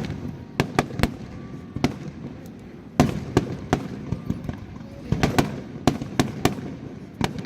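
Fireworks bursting overhead: an irregular run of sharp bangs, several a second at times, over a continuous low rumble. The loudest bang comes a little under halfway through.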